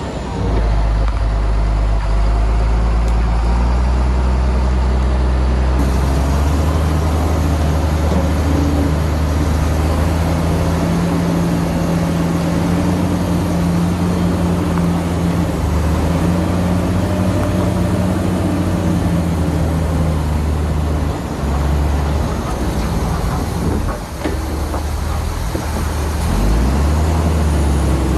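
Heavy diesel engines of earth-moving machinery running loud and continuously, the engine note shifting with the load, and revving up near the end.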